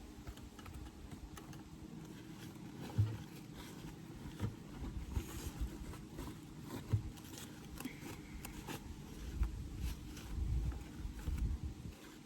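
Light clicks, taps and scrapes of wooden hive parts and frames being handled, with a few low thumps, over a faint steady hum of honeybees.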